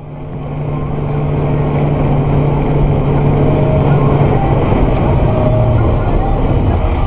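Car driving, with steady engine and road noise that builds over the first second and then holds loud and even.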